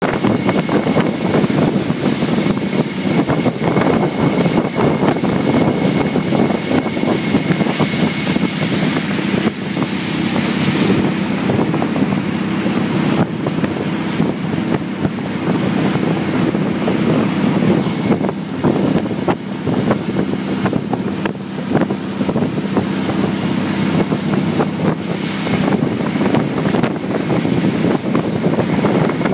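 Ferry boat's engine running steadily, with wind buffeting the microphone. A faint thin high whine comes through in the first several seconds and again near the end.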